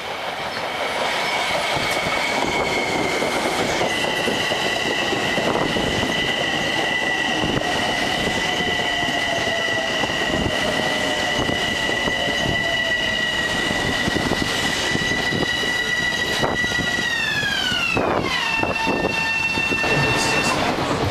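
Passenger train running on the rails, wheels clacking over the joints, with a steady high whine in several tones. About 17 seconds in the whine glides down in pitch as the train slows, then holds a lower tone.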